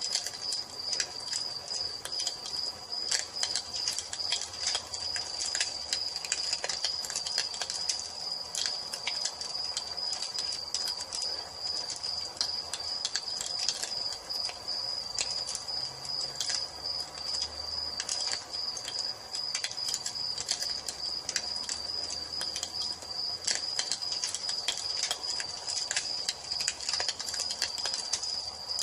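Wood fire crackling with frequent sharp pops and snaps, over a continuous high-pitched cricket chirring.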